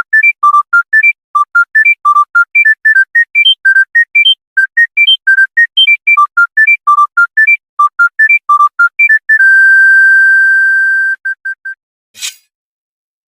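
Electronic beeping smartphone ringtone: a fast melody of short beeps, about four or five a second, ending on a long held note and a few last beeps, followed by a brief swish.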